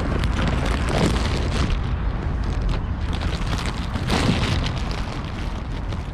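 Wind buffeting the microphone in a steady low rumble, with faint bird calls about a second in and again about four seconds in.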